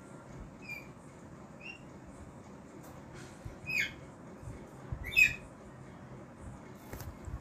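A bird calling in the background with four short calls, the loudest two about four and five seconds in.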